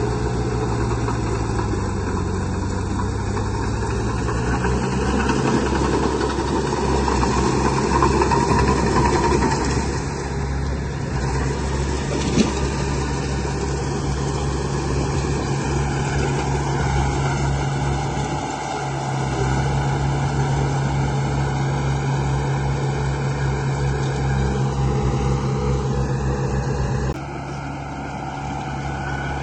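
Diesel-style engine sound of an earth-moving machine running steadily, its pitch shifting up and down as it works, with one sharp click about twelve seconds in. The sound changes abruptly near the end, where it becomes quieter.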